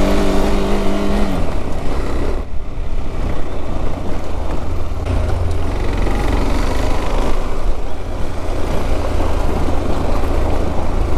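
Motorcycle under way: the KTM 390 Adventure's single-cylinder engine running, largely covered by loud wind and road rumble on the microphone. A steady engine note is clear at first and sinks into the wind noise after about a second and a half.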